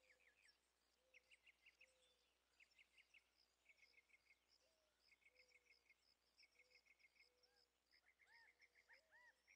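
Very faint outdoor birdsong: quick runs of three to six high chirps repeating every second or so, with a lower short whistle recurring between them and rising-and-falling calls near the end.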